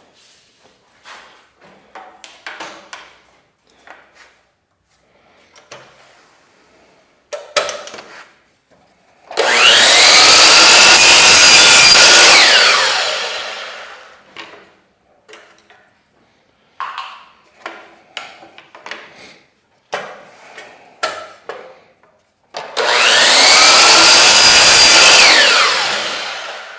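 An electric saw makes two cuts through wood. Each time the motor spins up, runs for about four seconds and then winds down with a falling whine as the blade coasts to a stop. Between the cuts there are scattered knocks and clicks as the boards are handled.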